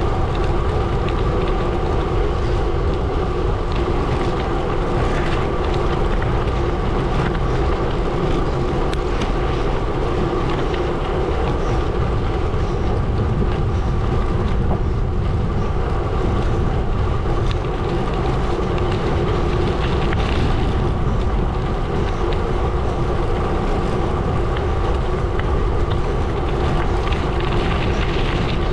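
Gravel bike tyres rolling over a gravel road, a steady crunching rumble with a constant hum running through it.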